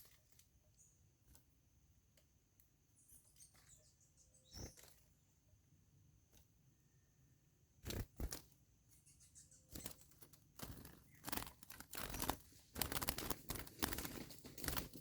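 Faint scattered clicks, then from about eight seconds in a run of irregular rustling and scraping noises.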